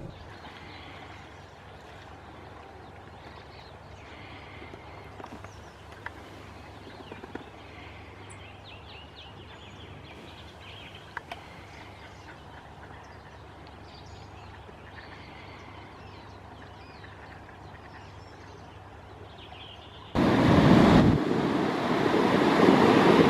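Faint outdoor ambience with scattered, faint bird chirps and a few light clicks. About twenty seconds in, a loud rush of wind noise on the microphone cuts in suddenly.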